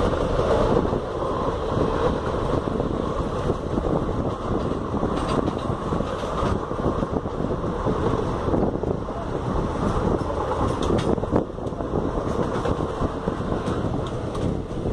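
Superfast express passenger train running at speed, heard from an open coach door: a steady rumble of wheels on the rails, with wind buffeting the microphone.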